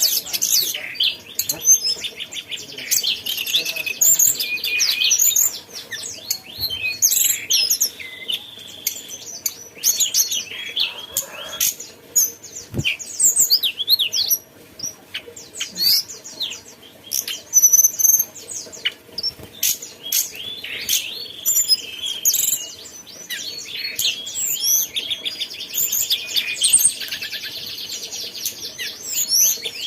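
Tledekan gunung songbird singing a long, varied song: quick high chirps and sweeping whistles mixed with fast buzzy trills, the densest trilling near the start and again near the end.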